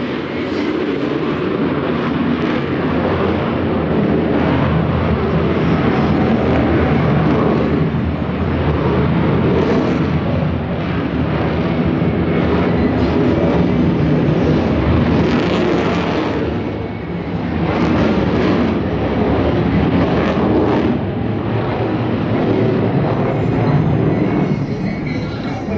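Jet noise from a Sukhoi Su-30MKM fighter's twin AL-31FP turbofan engines during a display flight. It is loud and continuous, swelling and easing as the aircraft manoeuvres, with a brief dip about seventeen seconds in.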